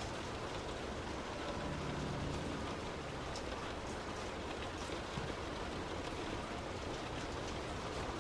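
Heavy rain striking a moving car, with scattered drop ticks over a steady wash of rain and road noise.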